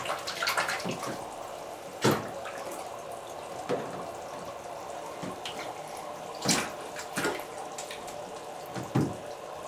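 Water splashing in a small tub as a white-winged scoter dives after minnows: half a dozen sharp splashes, loudest about two seconds in and again a little past the middle, over a steady sound of running water.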